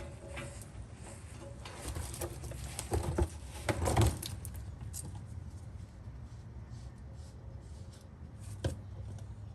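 Scattered metal clinks and knocks from handling exhaust bolts and tools, with a cluster of louder knocks about three to four seconds in and one more sharp knock near the end.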